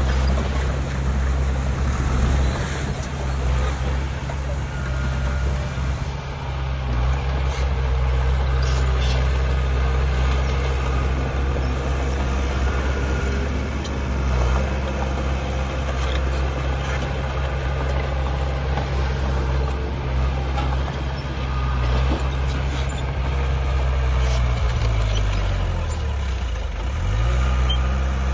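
Diesel engine of heavy earthmoving equipment running steadily under work, its pitch dropping briefly and coming back up near the end.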